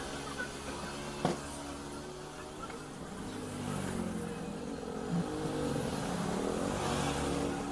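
A motor vehicle engine running and changing pitch, slowly rising and falling, with a sharp click about a second in.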